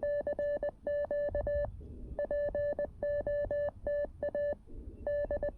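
Morse code (CW) from the CFT-1 QRP transceiver: a single steady beep keyed on and off in quick runs of dits and dahs, with short gaps between characters.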